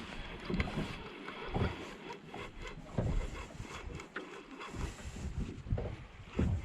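Small fishing boat on the water: irregular low thumps and light knocks against the hull, a few every couple of seconds, over a steady noise.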